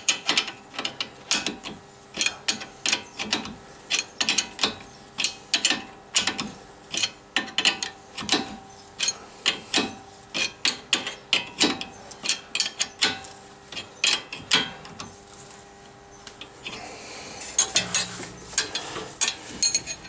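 Ratchet wrench clicking in repeated short strokes, about two or three clicks a second, as it turns a sway bar link nut. The clicking pauses briefly and then comes back quicker near the end.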